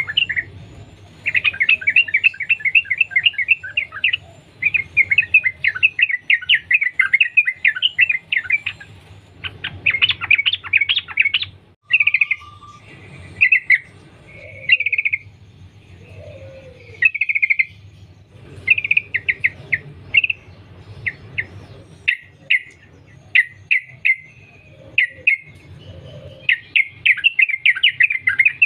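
Yellow-vented bulbul (trucukan) singing in long runs of rapid, chattering notes. In the middle stretch it breaks into shorter, clearer phrases, then returns to rapid runs near the end.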